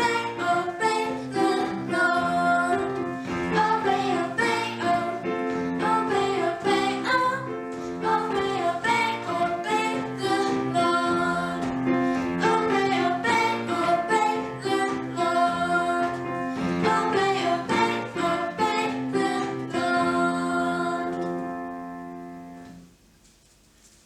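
Worship song with a woman singing over piano or keyboard accompaniment, fading out near the end.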